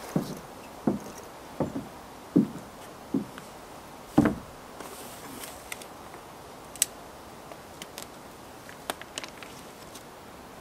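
A series of dull knocks on wood, roughly one every second, ending with a louder one about four seconds in. A few faint, light clicks follow.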